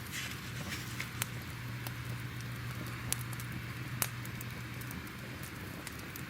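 Wood fire crackling: a steady hiss with frequent small pops and a few sharper snaps, the strongest about one, three and four seconds in, over a low steady hum.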